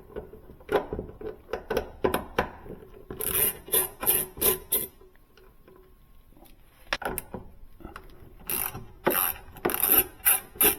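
Hand tools working on the lower door hinge of a Sub-Zero refrigerator: bursts of quick clicks, with a quieter stretch in the middle.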